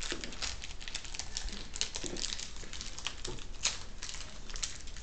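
Crinkling and rustling of wrapping being ripped off a trading-card pack, with a couple of light taps about two and three and a half seconds in.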